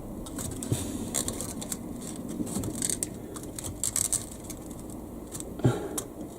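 Light clicks, taps and scrapes of model railway track pieces being handled and positioned, with a slightly louder knock near the end.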